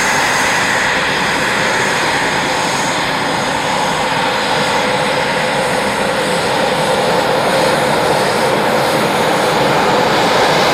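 Fixed-wing aircraft engines running steadily at high power, a dense loud noise with a few steady high tones in it, growing slightly louder toward the end.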